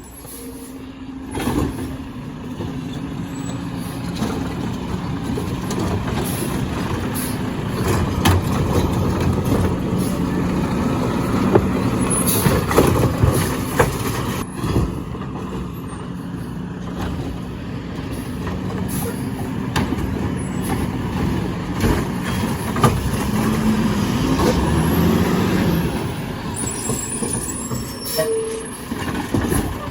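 Garbage truck running with a steady engine hum, and clanks and hisses now and then as it works.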